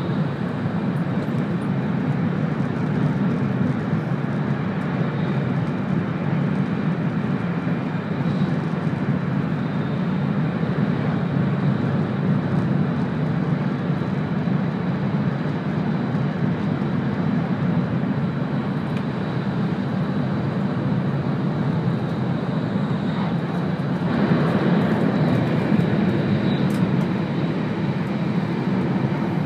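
Cabin noise of an E2 series Shinkansen train running: a steady rumble of wheels and rushing air, growing a little louder and brighter about twenty-four seconds in.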